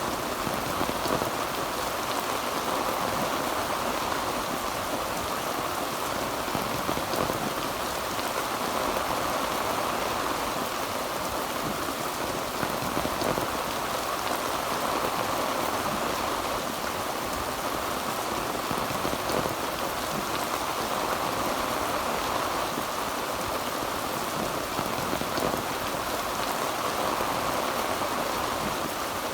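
Heavy rain falling steadily on a tin roof: a dense, even patter that neither builds nor eases.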